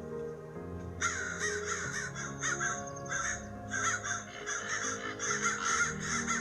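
Crows cawing: near silence from the calls at first, then from about a second in a dense, continuous run of many overlapping caws.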